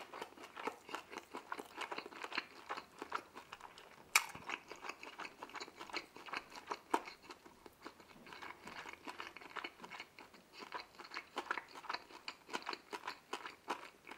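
Close-up chewing of crisp deep-dish pizza crust, a rapid run of small crunches from the jaw working through it, with one sharper crack about four seconds in.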